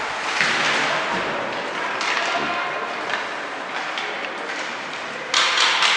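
Ice rink game sounds: a steady noisy background with scattered knocks and faint voices, and a sudden louder scrape near the end.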